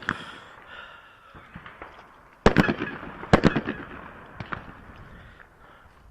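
Two shotgun shots about a second apart, each followed by echoes rolling off the range, with a sharper crack right at the start.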